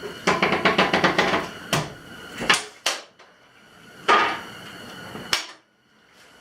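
A quick run of about ten metal clatters, then several separate knocks and clanks, as tools or exhaust parts are handled in a garage. A small propane heater hisses steadily underneath.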